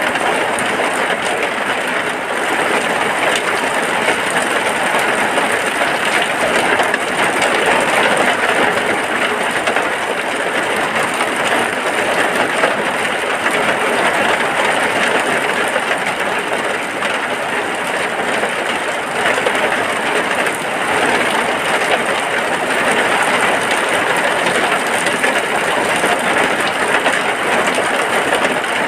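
Steady rain falling on a hut: an even, unbroken hiss of drops that holds at one level throughout.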